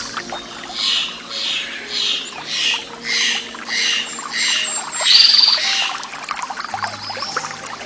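A bird calling in a run of about seven repeated notes, roughly two a second, then one louder call about five seconds in, over steadily running water.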